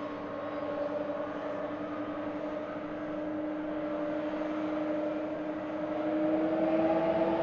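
Boeing 747 jet engines running with a steady droning whine over rushing noise, rising slightly in pitch and loudness near the end.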